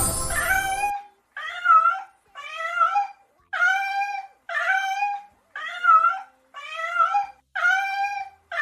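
A short musical jingle, then a run of about nine mewing animal calls, each one bending up and down in pitch, repeated a little under a second apart.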